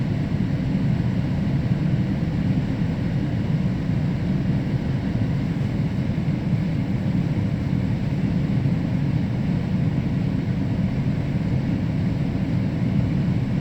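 Steady low rumble of a GO Transit commuter train running along the line, heard from on board, with no clear breaks or rail clicks.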